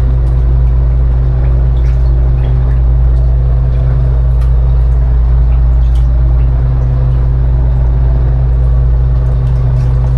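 Fishing boat's engine running steadily with a deep, unchanging drone, a few faint knocks over it.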